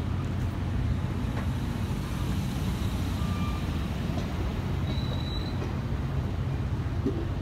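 Steel wheels of the circus train's passenger cars rolling past on the rails: a steady low rumble, with a faint click about a second and a half in and a short high squeal around five seconds in.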